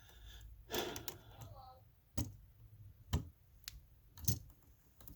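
Small tools and wires clicking and tapping against an electrical outlet's terminal screws and body while it is being wired: a handful of sharp, separate clicks, the loudest about four seconds in.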